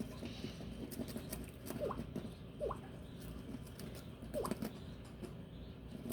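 A pet bird giving a few short, soft squeaky chirps, spaced a second or so apart, with light clicking behind them.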